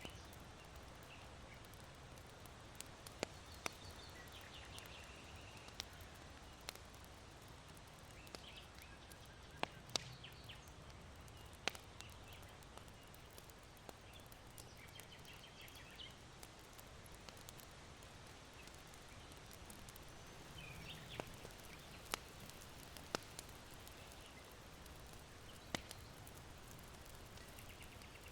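Faint charcoal fire in an irori hearth, giving sharp single pops and crackles every few seconds over a soft steady hiss. Small birds chirp briefly now and then.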